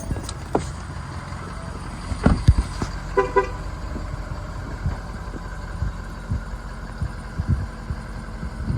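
Ford F-350's 6.7-litre Power Stroke V8 turbo diesel idling steadily, with a couple of thumps about two seconds in and two short horn toots a little after three seconds.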